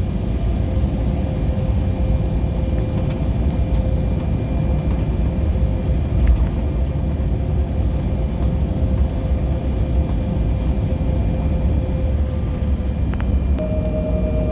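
Airliner engines running, heard inside the passenger cabin: a steady low rumble with a steady whine, and near the end the engine note changes as a higher whine comes in.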